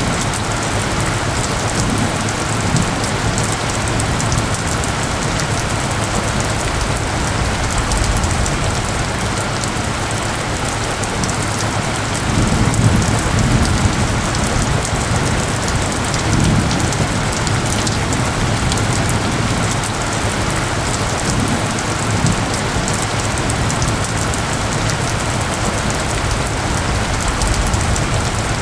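Steady heavy rain falling and pattering on surfaces, with low rumbles of thunder swelling about twelve seconds in and again a few seconds later.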